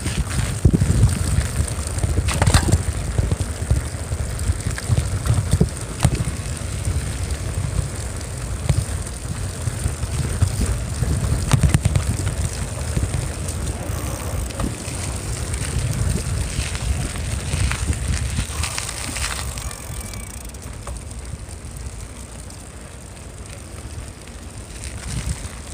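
Wind buffeting a phone's microphone during a bicycle ride, a continuous fluctuating rumble with scattered clicks and rattles from the moving bike. It grows quieter over the last few seconds.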